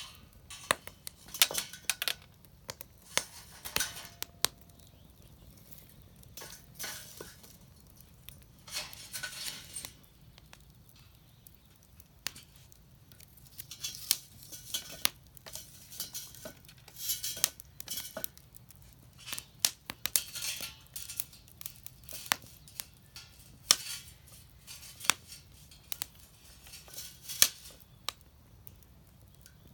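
Irregular sharp clicks and clinks with short scraping sounds, as of small hard objects being handled, over a faint low hum.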